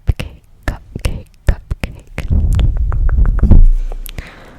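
ASMR mouth sounds close to the microphone: a run of wet clicks and pops, then about two seconds of loud low rumble on the microphone with more clicks over it, ending in a soft breathy hiss.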